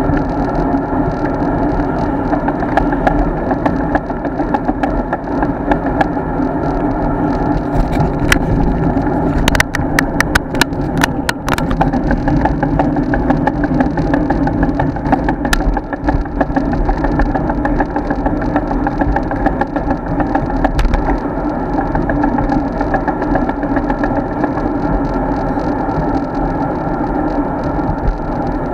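Wind and road noise from riding a road bike, heard through an action camera's microphone: a steady, loud rush with a constant droning hum. There is a quick run of rattling clicks about ten seconds in.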